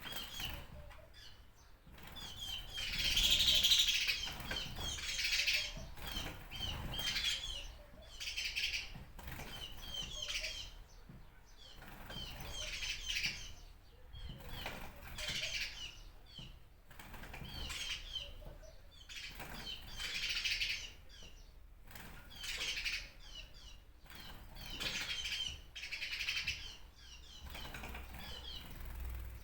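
Small birds chirping in repeated bursts of quick, high twitters, a new burst about every two seconds.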